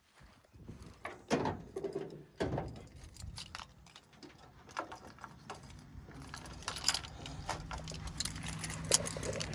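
Scattered clicks, clunks and jingles of handling things, such as keys and a door or latch. In the second half a low steady hum comes in and slowly grows louder.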